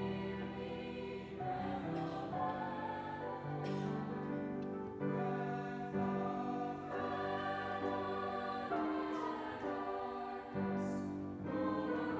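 Church choir singing a slow piece in held chords, the chords changing every second or two, with short breaks between phrases.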